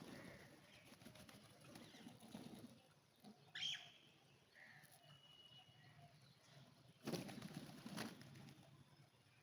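Pigeons' wings flapping in two quick bursts near the end, with one short high chirp about midway; otherwise faint.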